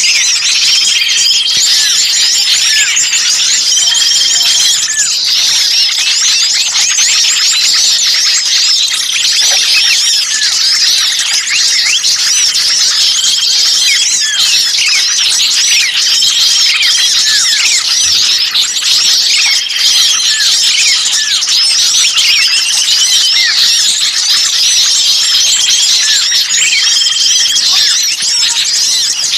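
Dense, loud chatter of many small songbirds, rapid chirps and twitters overlapping without a break, with a short steady whistled note recurring every few seconds. It is a bird-lure recording of small birds calling agitatedly, as if one were trapped.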